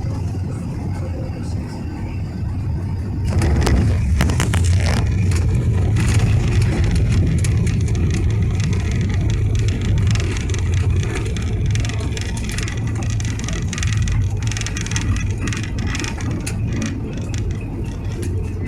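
Airliner cabin during landing: a steady low rumble with clattering and rattling of the cabin fittings, growing suddenly louder about three seconds in.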